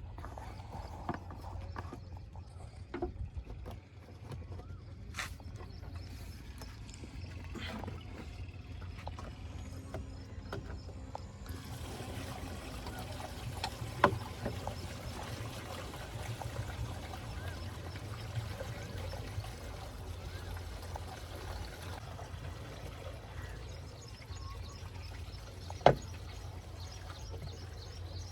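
A diesel engine runs steadily with a low rumble. In the middle a hiss lasts about ten seconds, and there are two sharp clicks, one about halfway through and one near the end.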